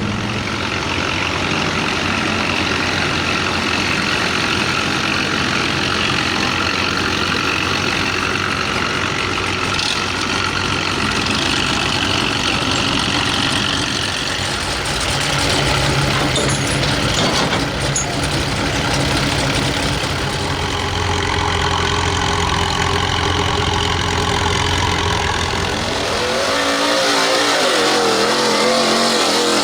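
Gas-engined street stock pulling truck's engine running loud and steady. Near the end its pitch wavers up and down.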